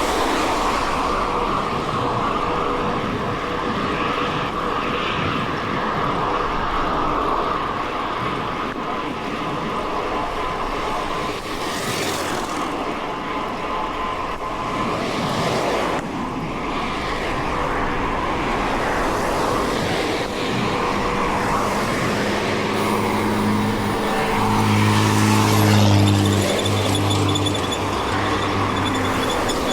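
Mountain bike riding along a dirt road: a steady rumble of tyres and bike. About two-thirds of the way through, a steady low hum joins, loudest a few seconds before the end.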